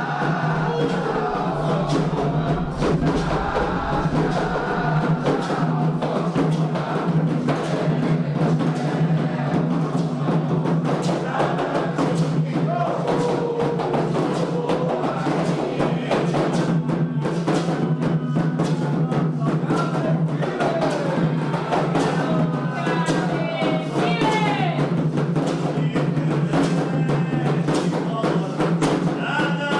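Candomblé ritual drumming on atabaque hand drums, a steady dense rhythm, with voices singing over it.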